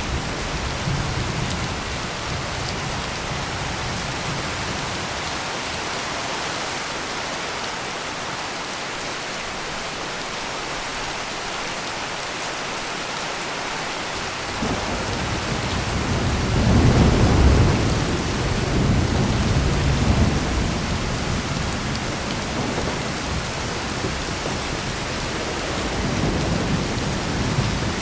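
Heavy rain pouring steadily, with a roll of thunder building about halfway through, loudest a few seconds later and rumbling away slowly, then a weaker rumble near the end.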